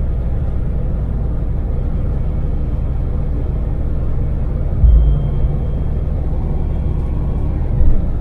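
Daewoo Damas mini van's small LPG-fuelled three-cylinder engine running steadily at cruising speed, with a constant low rumble. Two short, low thumps stand out, about five seconds in and again near the end.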